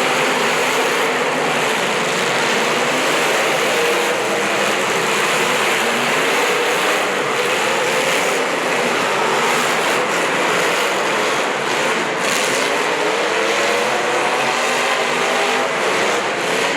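Racing vehicle engines running and revving, their pitch slowly rising and falling over a steady, loud din.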